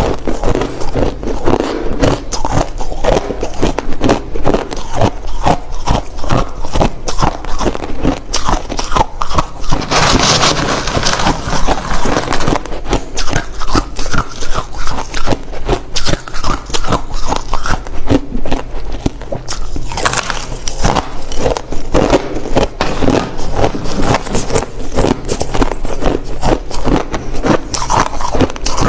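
Hard clear crushed ice being bitten and chewed close to the microphone: a dense, continuous run of loud crunches, with a brighter, hissier stretch of crunching about ten seconds in.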